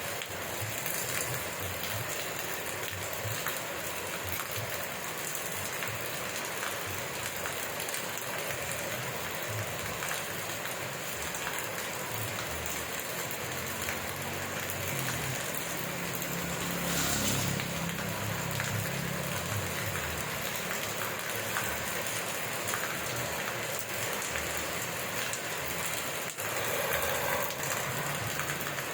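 Steady rain falling and pattering on surfaces, with a low rumble that swells and fades about halfway through.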